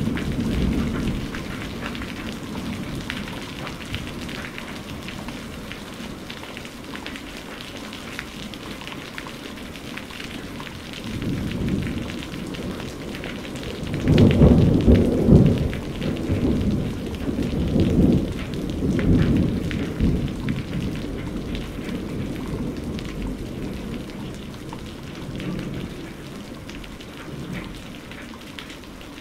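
Steady rain falling on a surface, with a long roll of thunder that builds about a third of the way in, is loudest near the middle, and rumbles away in waves.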